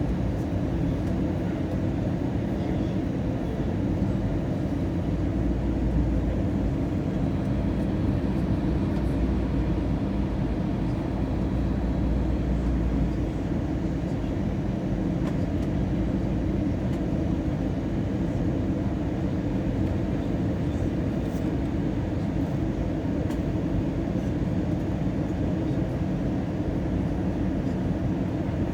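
Steady low rumble inside an Airbus A320 passenger cabin in flight: airflow and engine noise from the aircraft's CFM56 turbofans, unchanging throughout.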